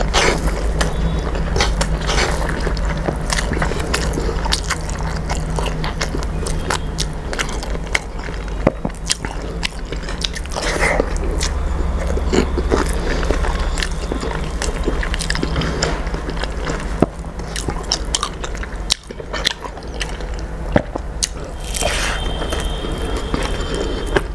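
Close-up eating sounds: chewing of rice mixed with red spinach saag, with many short wet clicks and smacks of the mouth, over a steady low hum.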